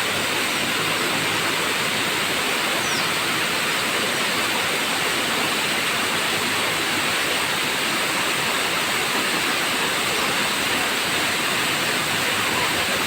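Tamaraw Falls waterfall rushing, a steady, unbroken roar of falling water.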